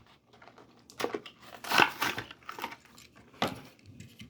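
Hot Wheels blister pack being torn open: the plastic blister and cardboard card crinkling and tearing in a run of irregular bursts, loudest about two seconds in.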